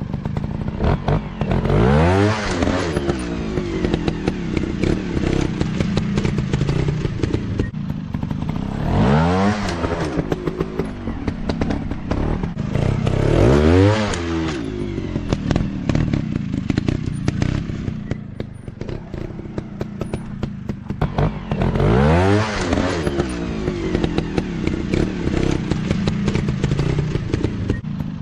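Motocross dirt bike engines revving up and falling back again and again, with several loud surges, each a rising then falling pitch. A dense crackle and clatter runs underneath.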